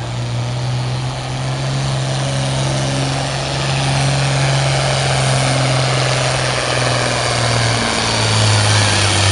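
Farm tractor's diesel engine running hard at a steady pitch while pulling the sled, with the pitch dipping slightly near the end.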